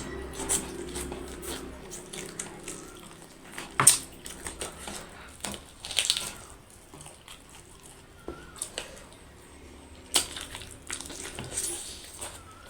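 Close-up eating sounds: chewing and mouth noises, with scattered sharp clicks and clinks of dishes, the loudest about four seconds in.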